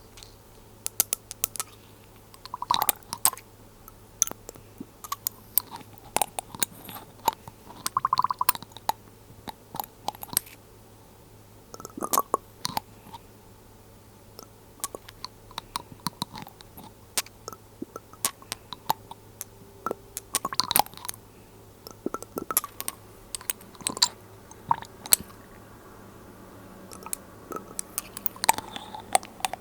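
Glass dropper bottles being handled close up: quick clicks and taps, with light glass clinks that ring briefly, in irregular clusters.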